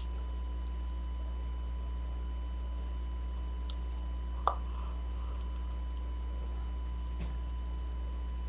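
Steady electrical hum and whine picked up by a webcam microphone, with a few small clicks, the sharpest about halfway through.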